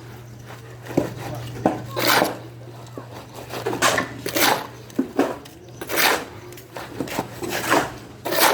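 Repeated scrapes and knocks of hand tools against hard material, a stroke every half-second to second with a few sharp clicks, over a steady low hum.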